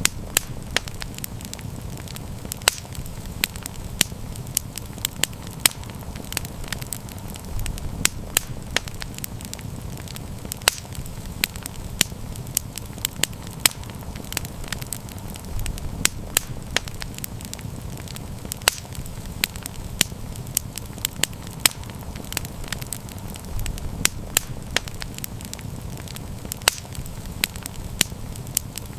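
Wood fire crackling, with frequent sharp pops scattered irregularly over a steady low rumble.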